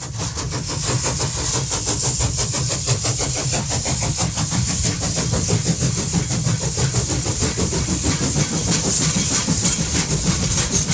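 Train running, with a fast, even rhythmic clatter over a low rumble and a steady high hiss.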